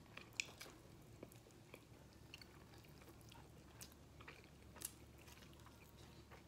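Faint chewing and biting of chicken wings, with scattered soft mouth clicks and small crackles at irregular intervals.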